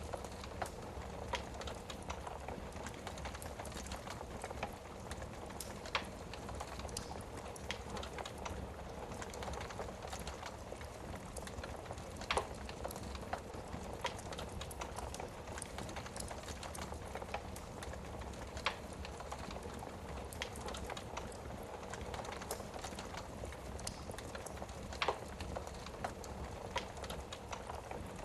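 Wood fire burning in a fireplace: a steady soft hiss with frequent small crackles and a few louder, sharper pops scattered through it.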